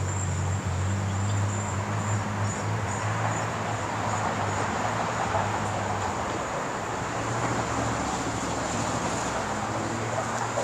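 Steady low engine-like hum, as from a vehicle running, over a steady background of noise, with a faint thin high tone on top.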